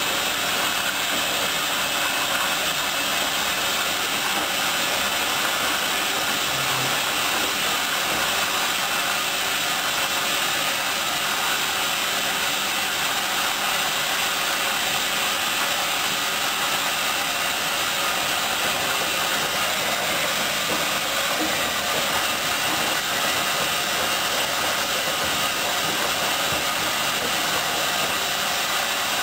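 Hoover DYN10124DP washing machine running through its last rinse with softener, a steady, even noise with no breaks.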